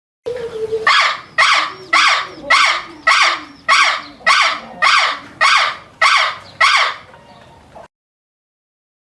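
An animal call repeated about a dozen times in quick succession, about two a second, cutting off suddenly near the end.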